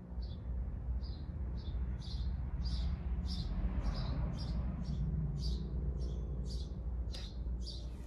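A bird chirping over and over, about two short high chirps a second, over a steady low rumble.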